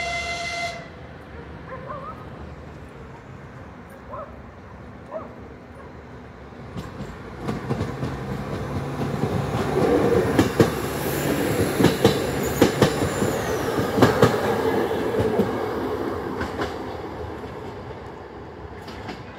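RA2 diesel railbus: a horn blast ends under a second in. Then its engine and wheels grow louder as it runs close past, with wheels clicking sharply over the rail joints, and fade away as it moves off.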